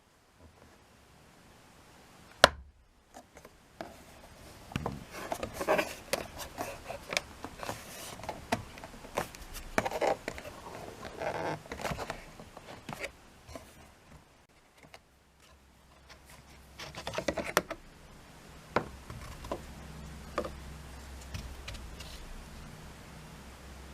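A sharp click, then many small clicks, taps and scrapes of parts being handled by hand, as in working on plastic dashboard pieces; a low steady hum comes in over the second half.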